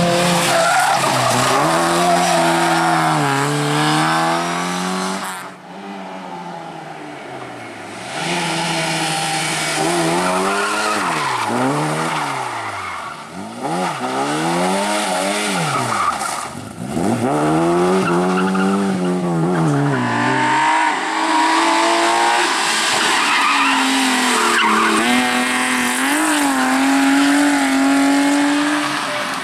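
Rally cars driven flat out: engines rev up and fall back again and again through gear changes and lifts, with tyres squealing and skidding through corners.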